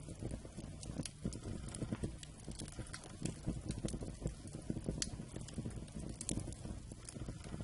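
Wood campfire burning: a continuous low rumble of flame with frequent sharp crackles and pops from the burning wood, several every second.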